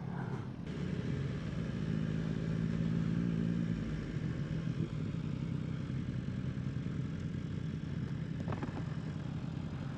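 BMW S1000RR's inline-four engine running at steady low revs, rising a little in the first few seconds and then holding even.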